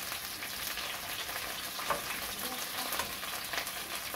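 Broccoli and cauliflower fritters frying in hot oil in a frying pan, a steady crackling sizzle, with a couple of light clicks as they are handled.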